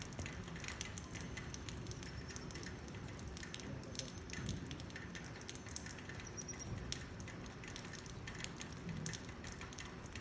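Rain falling steadily, with an irregular patter of drops striking close by.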